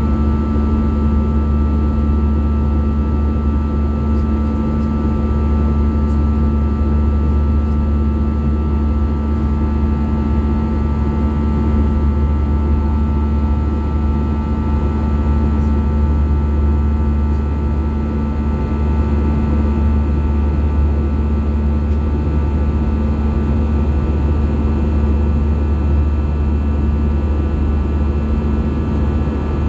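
Steady cabin noise inside an Airbus A320-214 with CFM56 engines: a deep, even rumble of engine and airflow with several steady engine tones above it, unchanging throughout.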